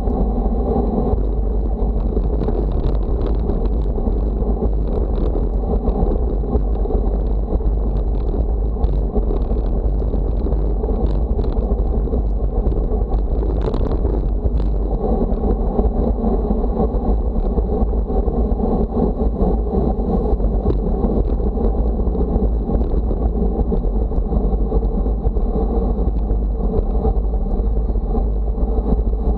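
Wind buffeting the microphone: a loud, steady rumble, with a few faint ticks around the middle.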